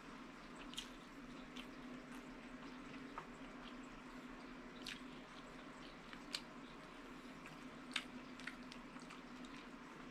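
Faint, scattered wet clicks and smacks of a person chewing food with an open mouth close to the microphone, over a low steady hum.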